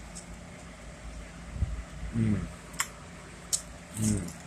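Faint handling clicks, twice, over a low steady hum, with two short murmured "mm" sounds from a person.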